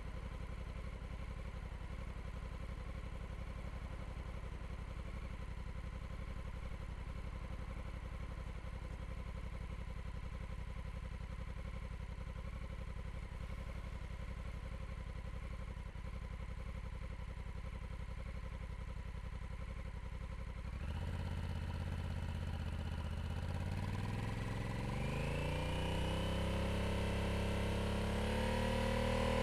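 Honda CRF1100L Africa Twin's parallel-twin engine idling steadily through its exhaust, then about two-thirds of the way in the engine speed climbs, the pitch rising in stages and growing louder toward the end.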